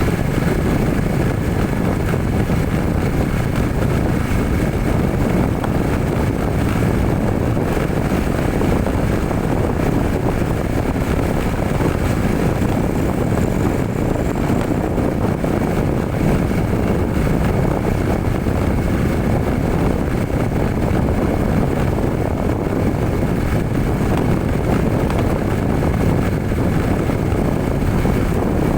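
Truck engine running steadily with road rumble while driving, a constant low drone with a faint steady whine above it.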